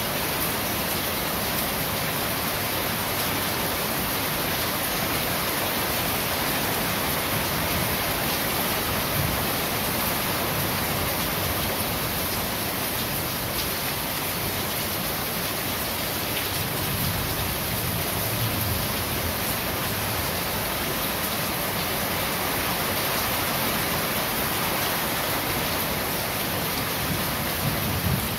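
Steady rain falling on a corrugated metal roof, an even hiss with no break. A brief low rumble swells underneath about two-thirds of the way through.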